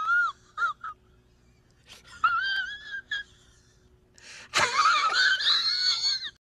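High-pitched, wavering animal cries come in bouts: a short one at the start, another about two seconds in, and a louder, longer one from about four and a half seconds.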